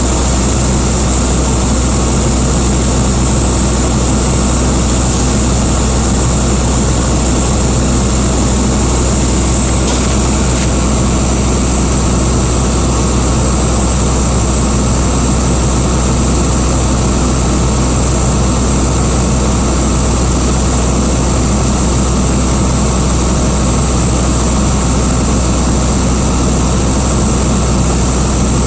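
Steady drone of a heavy engine with a constant high whine over a deep hum, unchanging throughout.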